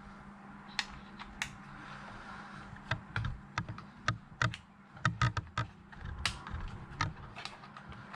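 Irregular sharp clicks and light taps of small hard parts being handled and fitted by hand, coming thicker in the second half, over a steady low hum.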